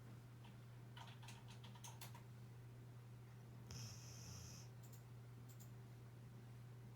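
A sleeping mixed-breed dog breathing softly, with one faint snore about four seconds in, over a steady low hum. A few faint clicks come a second or two in.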